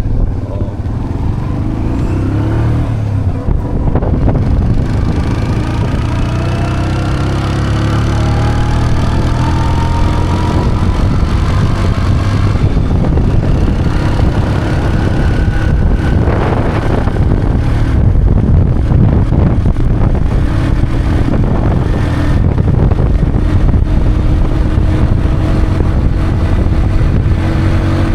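Motorcycle taxi's engine running under way, heard from the bike, its pitch rising in stretches as it accelerates.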